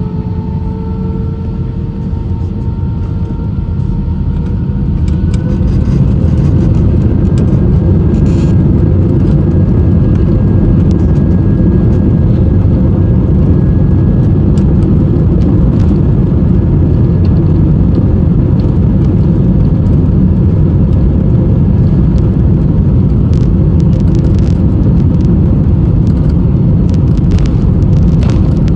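Airbus A320's jet engines heard from inside the cabin spooling up to takeoff thrust: a whine that rises in pitch and loudness over the first six seconds, then a steady loud rumble, with a few light clicks near the end.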